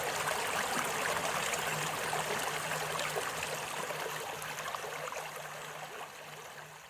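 Flowing creek water, a steady babble that fades out gradually over the last few seconds.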